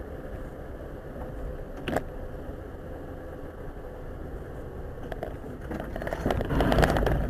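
Car driving, with steady road and engine noise heard from inside the cabin. There is a sharp knock about two seconds in, and the noise grows louder and rougher with rattles and clicks near the end.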